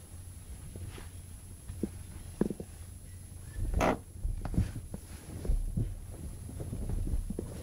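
Angry pet rabbit grunting and growling in short bursts over a low rumble, the sound of a defensive, aggressive rabbit; the loudest grunt comes about four seconds in.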